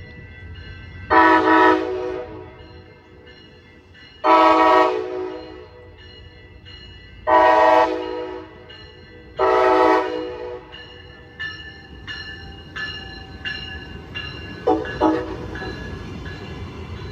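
Train air horn sounding a series of loud, chord-like blasts, each about a second long, a few seconds apart. Fainter, shorter tones follow, with a brief double toot near the end.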